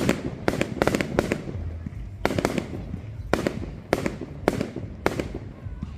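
Fireworks going off: a dozen or so sharp bangs, unevenly spaced, some coming in quick pairs.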